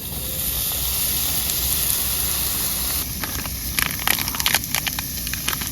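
Meat grilling over a butane gas flame: a steady gas hiss, then from about three seconds in, fat crackling and popping on the grill.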